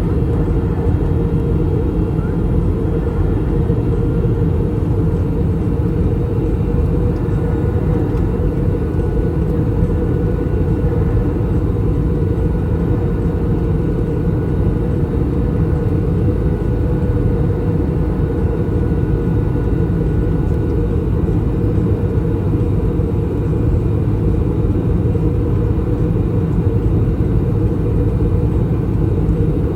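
Airbus A321 cabin noise during descent: a steady, unchanging low rumble of airflow and engines, with faint steady whines above it.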